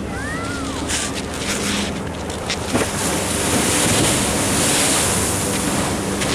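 Ocean waves washing and splashing against a sea wall, the surf swelling louder a few seconds in, with wind buffeting the microphone.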